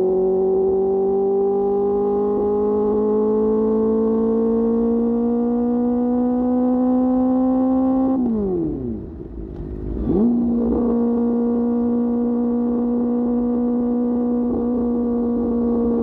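QJ Motor SRK600's inline-four through an SC-Project exhaust, pulling with slowly rising revs. About eight seconds in the throttle closes and the pitch falls away. About two seconds later a quick blip of revs follows, and then it holds a steady cruise.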